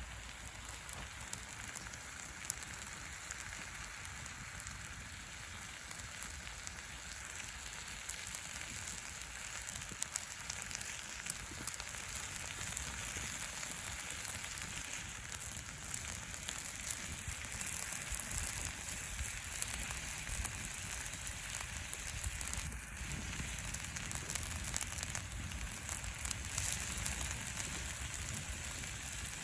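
Wood campfire crackling: a steady hiss dotted with many small, sharp pops, growing a little louder about halfway through.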